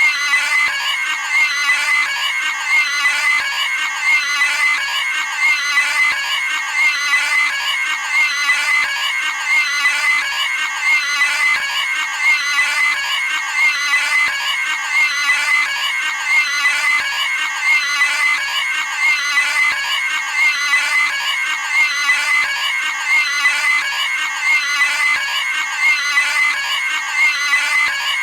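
Cartoon pig screaming: a shrill squeal, the same short scream repeated over and over in an unbroken, evenly paced loop.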